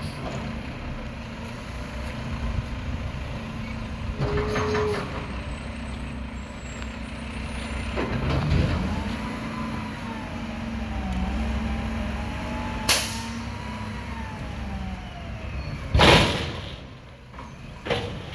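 Mack MRU front-loader garbage truck running, its engine revving up and down to drive the Heil hydraulic lift arms while emptying a dumpster, with a sharp clank part way through. About sixteen seconds in comes a loud, short air-brake hiss, the loudest sound, with a smaller one just before the end.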